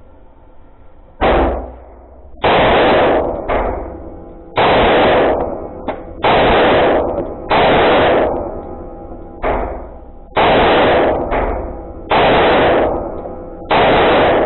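Glock 43X 9mm subcompact pistol firing a string of single shots, about one every one to two seconds, each shot followed by a long reverberant decay.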